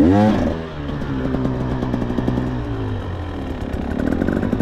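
KTM two-stroke enduro dirt bike engine revving up sharply, then running at a steady pitch and picking up again near the end.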